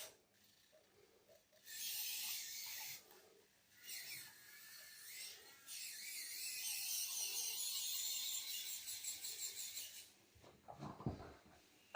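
Two N20 12V micro gear motors driving a WPL 6x6 RC truck chassis, whirring in bursts as the throttle is applied: a run of about a second and a half, a brief blip, then a longer run of about four seconds. A few knocks follow near the end.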